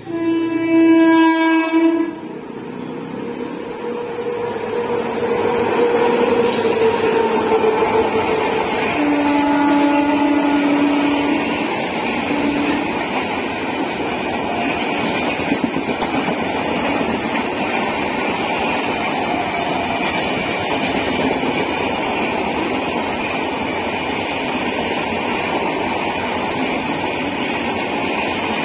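Indian Railways passenger train: a loud locomotive horn blast lasting about two seconds at the start, a second, lower horn blast about nine seconds in followed by a short toot, then the steady rumble and clatter of the coaches rolling past.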